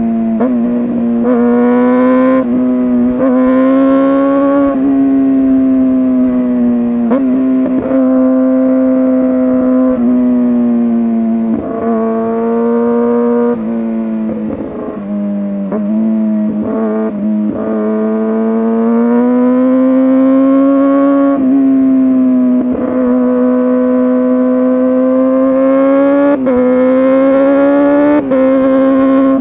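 Kawasaki ZX-6R 636 inline-four running hard through an SC Project exhaust, held at high revs while riding. The pitch rises and falls slightly, with short dips every few seconds.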